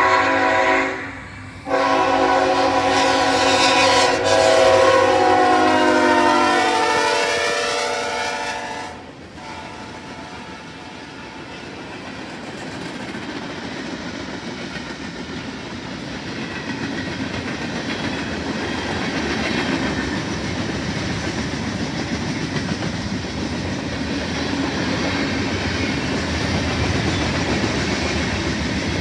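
A diesel freight locomotive's air horn sounds a short blast, then a long one whose chord drops in pitch as the locomotive passes. After that the train rolls by with a steady noise of wheels on rail that slowly grows louder.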